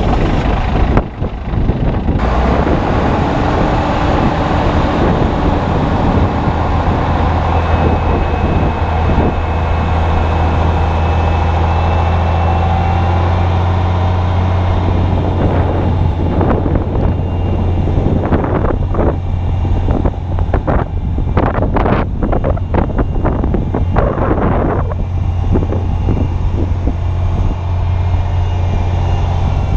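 Strong wind buffeting the camera microphone in gusts, with a steady low hum underneath.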